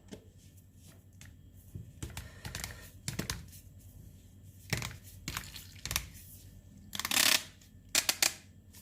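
Plastic parts of a portable hand espresso maker being handled and fitted together: scattered clicks and knocks, a short scraping rustle about seven seconds in, and three quick clicks near the end.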